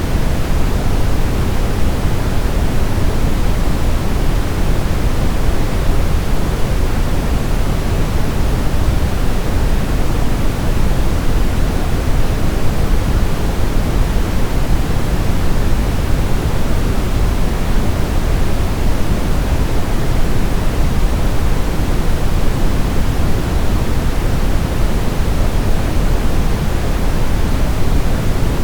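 Brown noise: a steady, unchanging rush of random noise, strongest in the deep lows and falling off toward the highs.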